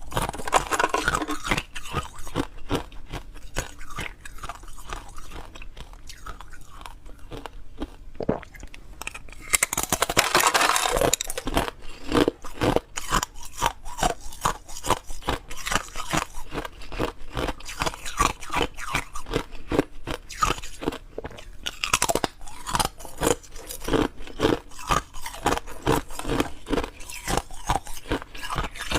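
Ice being bitten and chewed close to the microphone: a dense, continuous run of sharp crunches and crackles, with a louder, longer crunching burst about ten seconds in.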